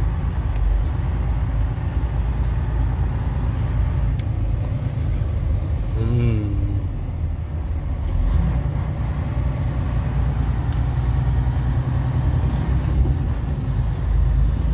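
Steady engine drone and road noise of a vehicle driving, recorded by its dashcam, with a brief wavering tone about six seconds in.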